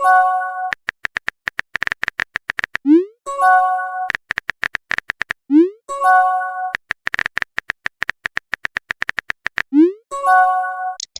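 Chat-app sound effects repeated four times: a short rising pop and a brief chord chime as a message appears, each followed by a run of rapid, even typing clicks.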